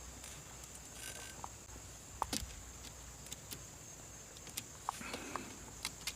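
Quiet hand-work noises: scattered small clicks and a few light metallic taps from a screwdriver and wires being worked at a generator's outlet panel, over a steady high-pitched hiss.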